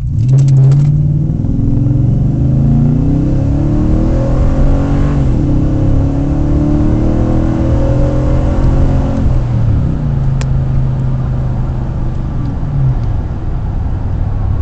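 Nissan Titan V8 with a Magnaflow true dual exhaust accelerating hard from a stop. The engine climbs in pitch, drops back at upshifts about five and about ten seconds in, then settles to a steady cruise.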